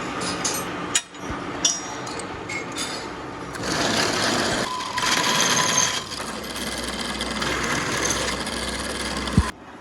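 Metalworking machinery running in a workshop: dense mechanical grinding and rasping noise with small knocks. It changes abruptly several times and drops away near the end, just after a short thump.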